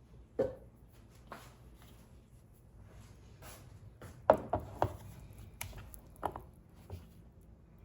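Scattered knocks and clinks of kitchen utensils against cookware while the fritter batter is being handled, a few single taps with a quick cluster of three about halfway through.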